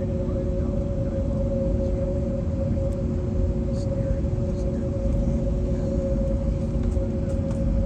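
Airbus A321neo with CFM LEAP-1A engines running steadily: a constant low rumble with two steady mid-pitched tones held throughout.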